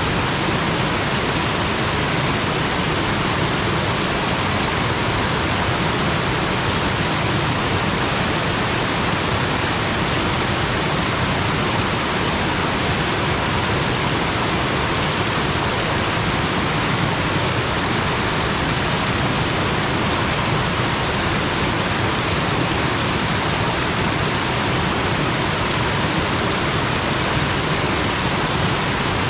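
Waterfall pouring between rocks: a steady, even rush of falling water with no change throughout.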